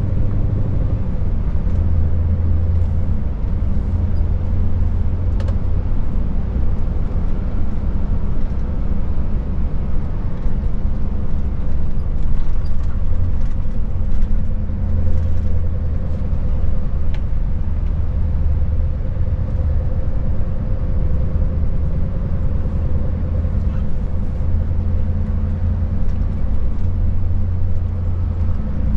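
Scania S580 truck's V8 diesel engine running steadily while driving, a constant low drone with road noise and no marked revving or gear changes.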